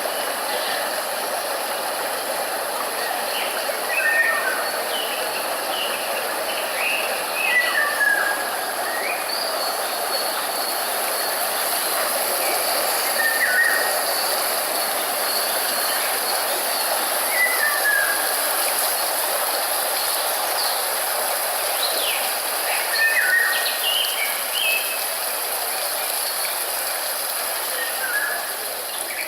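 Wild birds giving short, scattered chirps over a steady rushing background noise, with a constant high hiss or insect-like drone.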